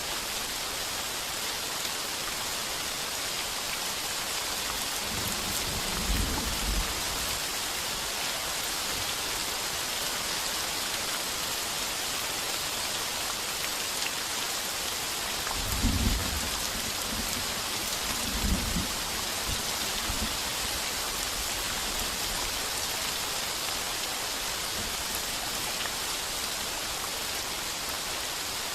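Heavy rain pounding a tin roof in a steady hiss, with low rumbles of thunder about six seconds in and twice more a little past the middle.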